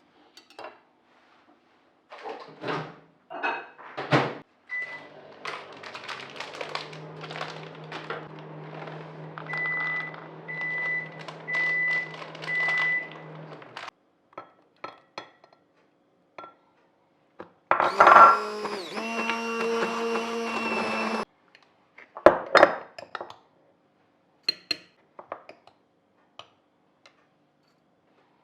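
Kitchen work: knocks and clinks, then a low appliance hum with four short electronic beeps. About two-thirds in, a small kitchen appliance motor runs loudly for about three seconds, followed by a few more knocks.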